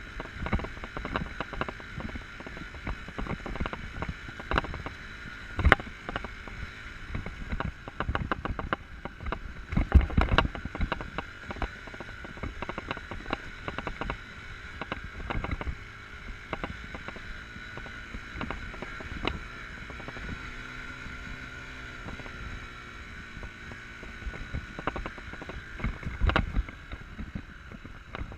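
Enduro dirt bike running while ridden over rough ground, with frequent knocks and rattles from bumps; the loudest jolts come about six seconds in, at ten seconds and near the end.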